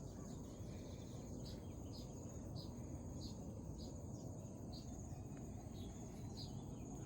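Steady high-pitched insect trilling, with short high chirps repeating roughly every half second to second over a low rumble.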